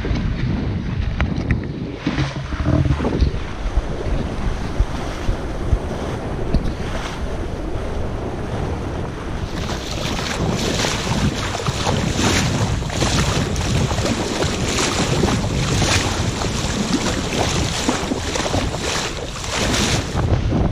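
Wind buffeting the microphone over water rushing past a sailboat under way, with repeated sharp splashes of waves against the hull from about halfway on.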